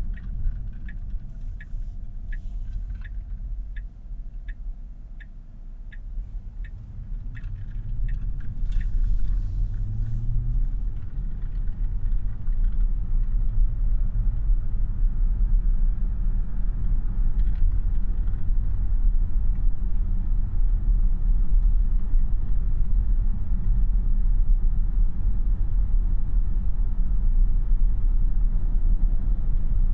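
Cabin sound of a 2026 Tesla Model Y AWD, an electric car with no engine note: the turn-signal indicator ticks about twice a second for the first nine seconds or so. Then road and tyre rumble swells as the car picks up speed and holds steady.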